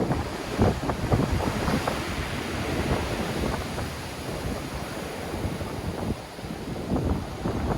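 Black Sea surf: waves breaking in strong wind, with wind buffeting the microphone. The wash swells loudest in the first couple of seconds and again near the end.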